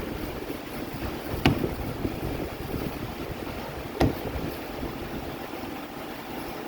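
Two sharp knocks, about two and a half seconds apart, from the car starter motor and tools being handled during its reassembly, over a steady background noise.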